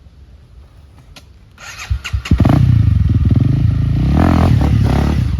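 Enduro dirt-bike engine that comes in about two seconds in and revs hard with rising and falling pitch, then drops away at the end.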